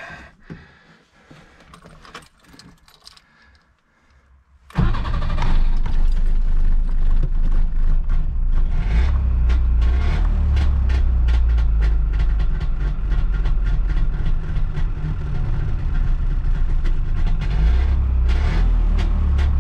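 Trabant P601's two-cylinder two-stroke engine, restarted half-cooled: after a few faint clicks it catches abruptly about five seconds in and runs steadily with a rapid, even ticking, the tuckering noise whose cause is being hunted.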